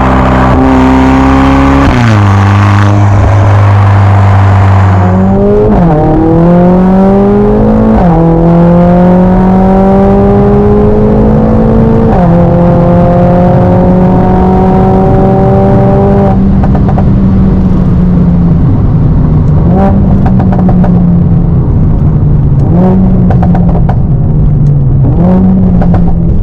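Stage 2-tuned 2020 Mercedes-AMG A45 S's turbocharged 2.0-litre four-cylinder pulling under acceleration. Its pitch climbs and drops sharply at four quick upshifts, then holds steady with a few short throttle blips near the end.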